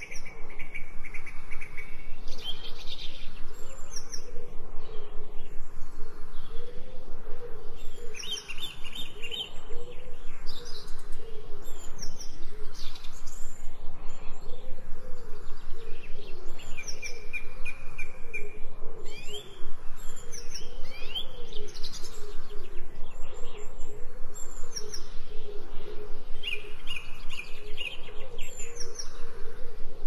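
Birds chirping and trilling in short calls every second or two, over a continuous low wavering sound, mixed as 8D audio so the sounds seem to move around the listener.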